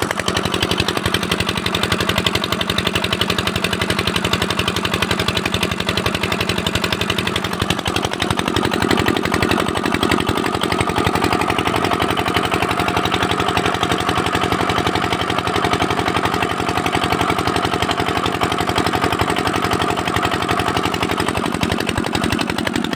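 Freshly rebuilt engine running steadily with rapid, even firing pulses, its pistons, rings and liners newly replaced after a failure from lack of oil. The sound gets a little fuller about eight seconds in.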